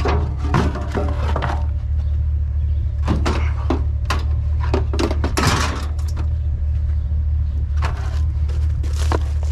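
Scattered knocks, clanks and clatter of curbside junk being handled, over a steady low hum.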